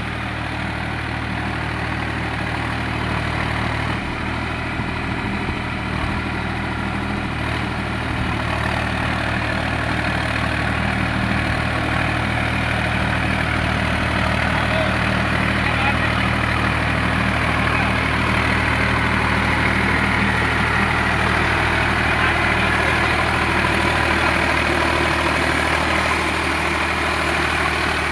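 Sonalika RX 47 4WD tractor's diesel engine running steadily, getting a little louder about a third of the way in.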